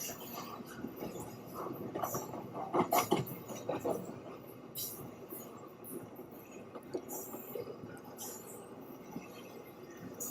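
Train moving on rails: irregular clanks and knocks of wheels and cars over a steady rumble, loudest about three seconds in.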